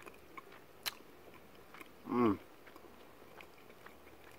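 A man chewing a bite of soft grilled ahi tuna, with small wet mouth clicks. About two seconds in comes a short appreciative hummed "mm", the loudest sound.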